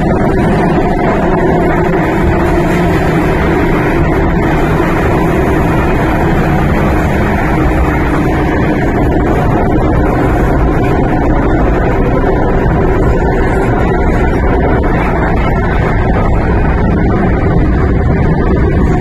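MTR Kwun Tong Line M-Train running through a tunnel, heard from inside the carriage: a steady, loud running noise of wheels on rails and traction motors.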